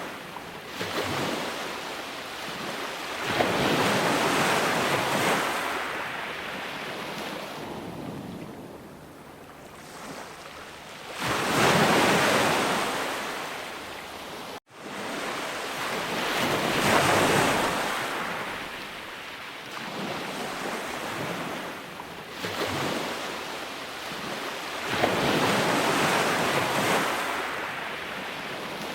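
Sea waves breaking and washing on a shore, the surf swelling and fading about every five to eight seconds. A momentary dropout about halfway through, like a splice in a looped recording.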